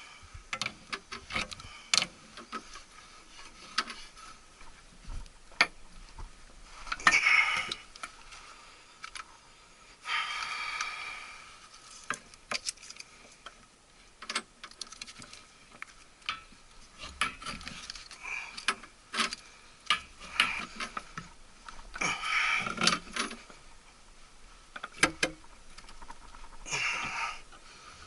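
Metal clinking and clicking from hands-on work, with many small knocks and several short rasping bursts about a second or two long.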